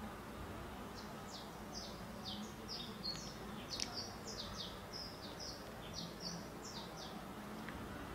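A small bird singing faintly: a quick run of short, high, falling chirps, about three a second, from about a second in until near the end. A few faint clicks come in between.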